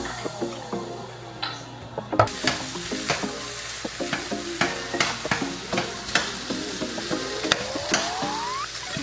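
Food sizzling in a frying pan while a utensil stirs it, with many sharp clicks and scrapes of the utensil against the pan.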